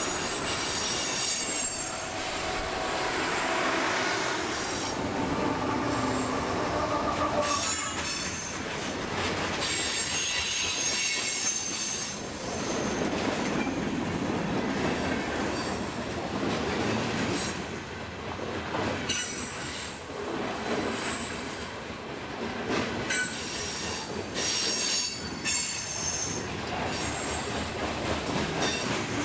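Freight train cars rolling past with steel wheels squealing in high, shifting tones and clickety-clack over the rail joints, while the train's two distributed-power diesel locomotives approach.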